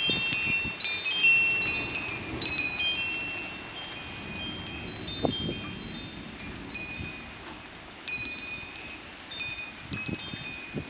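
Wind chimes ringing, many high struck tones overlapping: a busy burst over the first few seconds, thinning out in the middle, then picking up again near the end.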